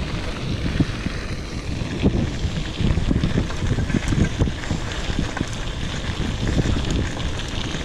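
Wind buffeting the microphone of a mountain bike rider moving along a dusty dirt trail, with the irregular rumble and crackle of tyres rolling over dirt.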